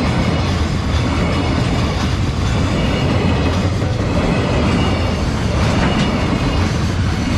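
A train running past on the rails: a steady rumble of wheels on track, with a few sharper clacks over rail joints late on.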